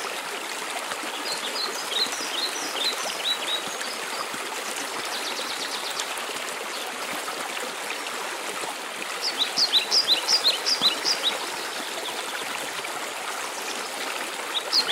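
Waterfall rushing steadily, with a small bird singing phrases of quick, high, falling notes about two seconds in and loudest around ten seconds in. A short buzzy trill comes about five seconds in.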